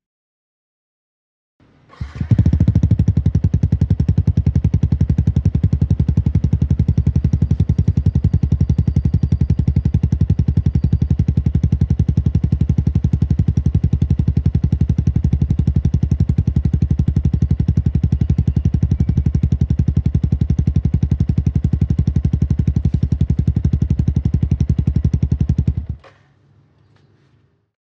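Yamaha FZ150i single-cylinder four-stroke engine breathing through an aftermarket Yoshimura exhaust, running at a steady idle with a fast, even exhaust beat. It starts about two seconds in and cuts off abruptly near the end.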